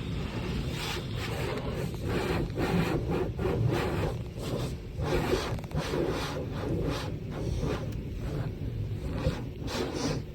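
Automatic car wash equipment working on a car: a steady low rumble with many short, irregular rushes of noise.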